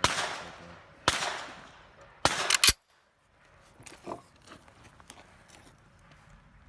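Five gunshots at an outdoor shooting range, each with a ringing echo: one at the start, one about a second in, then three in quick succession about two and a half seconds in. The sound then cuts off abruptly, leaving only faint small clicks.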